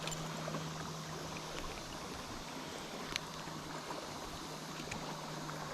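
Steady wash of flowing river water, with a couple of brief faint clicks, one at the start and one about three seconds in.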